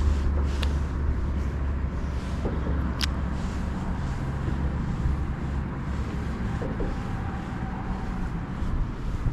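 Steady low rumble of running river water in a riffle, with wind on the microphone, and one sharp click about three seconds in.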